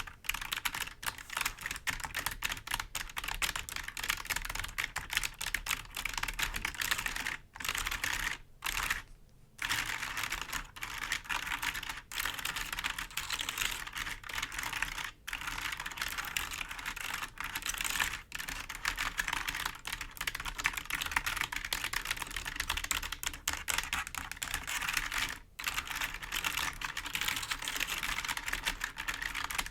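Fingers rapidly tapping and scratching on a clicky computer keyboard's keys: a dense, fast patter of clicks, broken by a few brief pauses.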